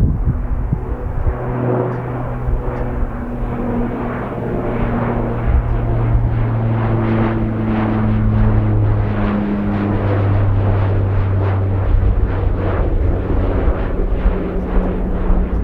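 Airliner engines at high power as the plane climbs away after takeoff, a steady drone whose pitch drops about ten seconds in, with wind rumbling on the microphone.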